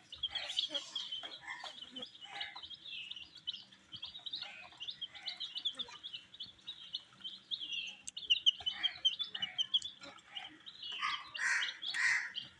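Many baby chicks peeping: a continuous run of short, high chirps, with scattered taps and rustles that come thickest about two-thirds of the way through and near the end.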